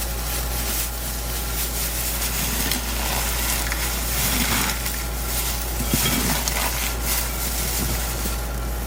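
Food sizzling and crackling in a frying pan over a steady low hum.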